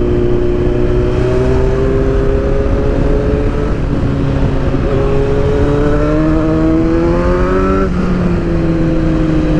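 Sport motorcycle engine running on the move, its pitch climbing steadily over several seconds, then dropping suddenly about eight seconds in and easing lower afterwards.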